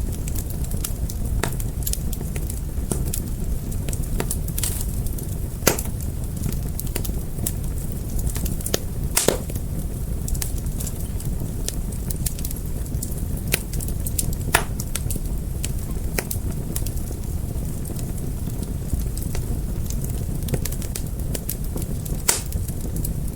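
Fire crackling: a steady low rumble with scattered sharp pops and snaps, a few louder pops standing out, about a quarter of the way in, at about the midpoint and near the end.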